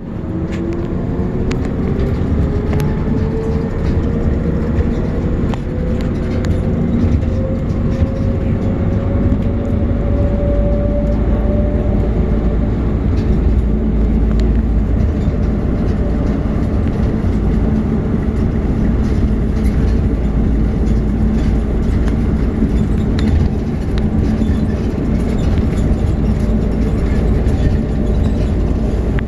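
Airport people-mover tram heard from inside the car: a steady rumble with a motor whine that rises slowly in pitch over the first ten seconds or so as the train gathers speed, then holds.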